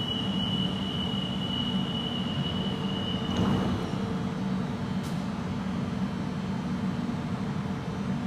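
Electric train running through an underground station: a steady low rumble and hum, with a thin high steady whine that stops about four seconds in.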